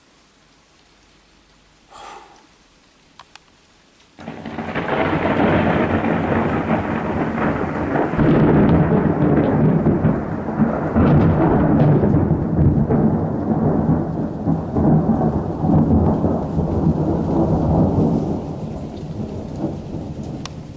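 Thunder from a close lightning strike: a sudden crack about four seconds in, then a long deep rumble that rolls on and fades near the end.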